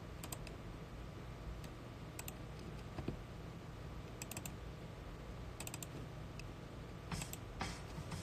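Faint light clicks in small groups of two or three, every second or two, over a low steady hum. A couple of longer, noisier scuffs come near the end.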